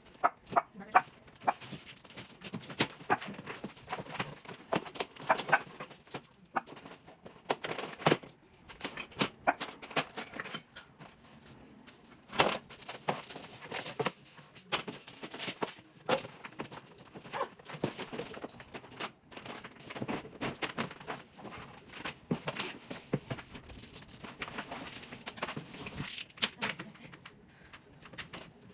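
Sped-up audio of a boxed pet playpen being cut open and unpacked: rapid, scattered clicks, rustles and clatters of cardboard and plastic.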